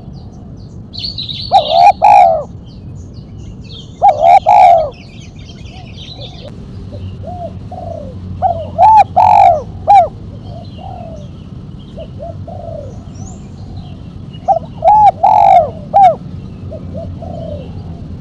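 Spotted dove (tekukur) cooing its 'mercik' call: a sharp multi-note coo phrase repeated four times, a few seconds apart. Faint chirps of small birds sound between the phrases.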